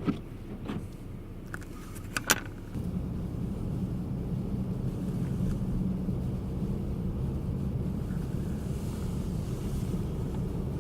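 Vehicle driving heard from inside the cab: a steady low engine and road rumble that grows louder about three seconds in, with a few sharp clicks and knocks in the first couple of seconds.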